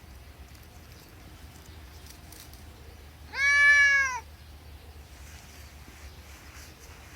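Domestic cat giving a single meow just under a second long, its pitch arching slightly and dropping at the end.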